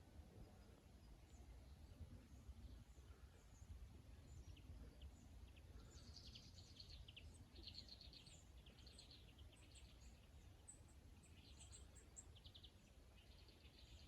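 Near silence: a faint low background rumble, with faint high bird chirps coming in short clusters from about six seconds in.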